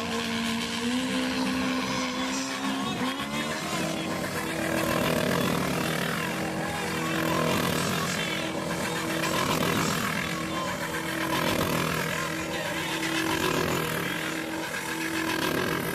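Motorcycle engine revving hard during a stunt routine. The pitch shifts in the first few seconds, then the engine is held at high revs with a steady, pulsing tone.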